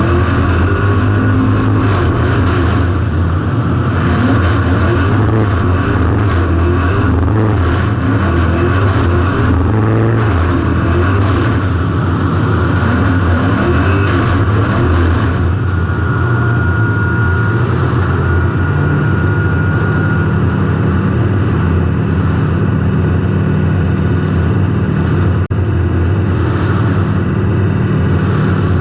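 Derby car's engine running hard, heard through an on-car camera, its revs rising and falling through the first half and then holding steadier. A single sharp knock about 25 seconds in.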